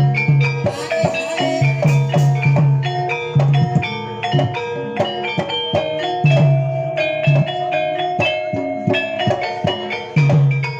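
Gamelan-style jaranan accompaniment: hand drums and tuned metal gongs and metallophones playing a fast, repeating pattern of ringing struck notes over steady low drum strokes.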